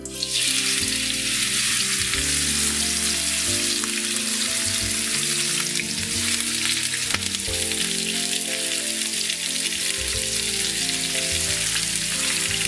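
Oyster mushrooms and red pepper pieces sizzling as they fry in hot olive oil in a paella pan, the sizzle starting abruptly as they are tipped in and then holding steady.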